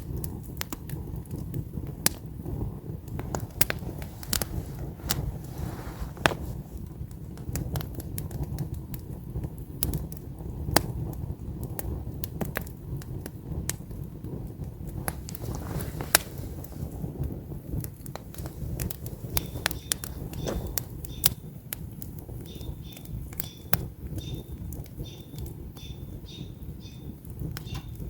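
Wood campfire crackling, with frequent sharp pops and snaps over a low steady rumble. About two-thirds of the way in, a bird starts chirping in quick repeated high notes.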